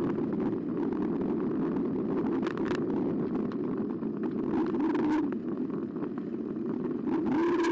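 Electric bike's motor whining under a rough rush of tyre and wind noise, the whine dipping and rising in pitch about halfway through. A few sharp clicks or rattles come and go.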